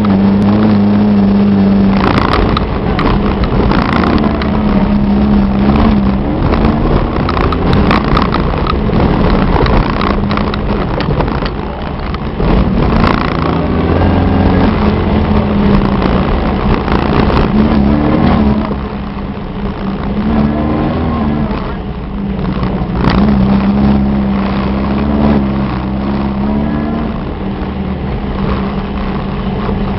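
Off-road VW Baja Bug's engine running under load on a rough dirt trail, heard from inside the cab, its revs rising and falling again and again with throttle and gear changes, with knocks and rattles from the bumpy ride.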